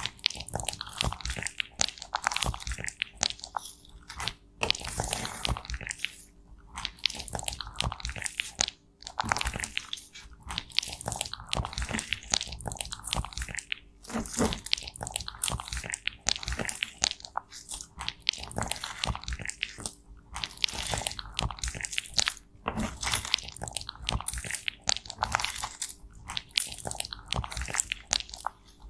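Cosmetics being crushed and broken up close to the microphone: a dense run of crunchy crackles with brief pauses every few seconds.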